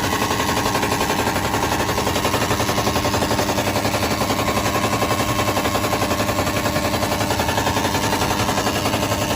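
Suzuki Satria FU fuel-injected single-cylinder engine held at high revs through a loud aftermarket exhaust, a steady, rapid, even pulsing.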